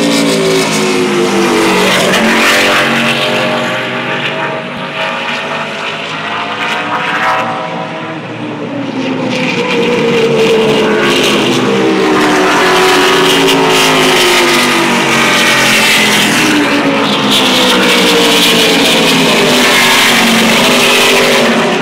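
NASCAR Truck Series race trucks passing at speed in a pack, their V8 engines overlapping, each one's pitch sliding down as it goes by. The sound eases off a little about a quarter of the way in, then builds again as more trucks come past.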